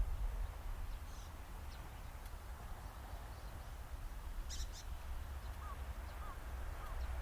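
Outdoor ambience: a steady low wind rumble on the microphone, with three short faint bird chirps about six seconds in.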